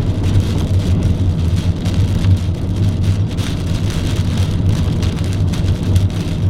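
Hail and heavy rain drumming on the roof and windshield of a moving car, heard from inside the cabin as a dense run of sharp ticks over a steady low hum of engine and road.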